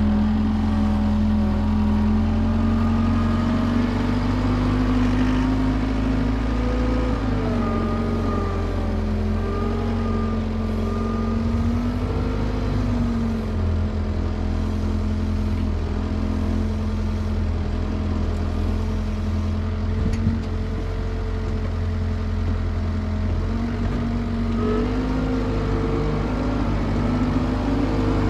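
John Deere 325G compact track loader's diesel engine running steadily under working load, its pitch rising and falling slowly as the machine pushes and levels dirt.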